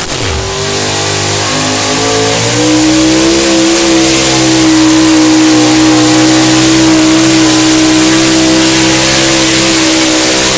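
Competition pulling truck's engine revving up over the first couple of seconds, then held at a steady high pitch at full throttle, with a loud rushing noise over it.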